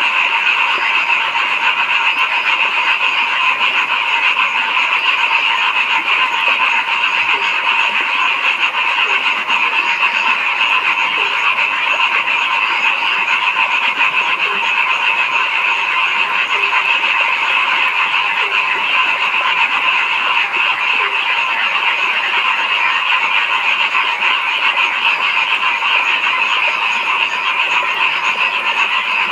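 A dense chorus of many frogs calling at once, a steady high-pitched churring that never breaks, with a few lower croaks scattered through it.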